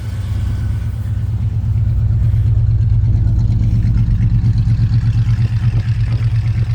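Chrysler 440 cubic-inch V8 with a four-barrel carburettor idling steadily at normal idle after a cold start, with a low, even, regular exhaust pulse.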